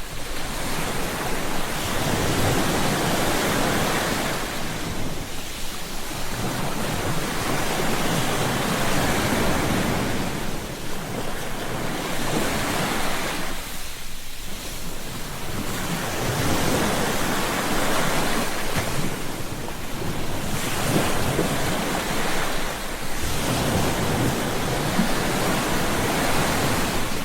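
Ocean surf breaking and washing onto a beach, the noise of the waves swelling and falling away about every four to five seconds.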